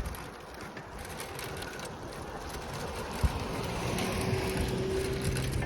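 A car approaching along the road, its road noise swelling over the last couple of seconds, with a single sharp knock about three seconds in.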